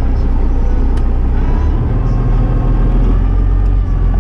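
Semi truck's diesel engine idling, a steady low rumble heard from inside the cab, with a single click about a second in.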